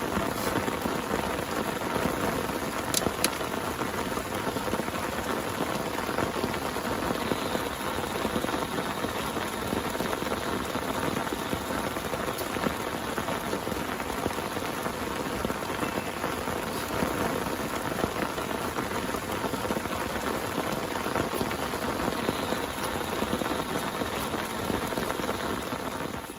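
Heavy rain pouring steadily, with a few sharper drop ticks; it cuts off abruptly at the end.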